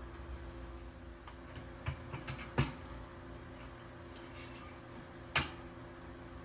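A few light, sharp metallic clicks and knocks, as of small metal parts being handled, the two loudest about two and a half and five and a half seconds in, over a steady low hum.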